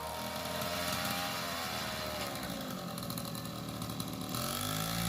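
Small motorcycle engine powering a homemade tractor, running with its pitch rising at first, dropping in the middle and climbing again near the end as the throttle is opened and closed.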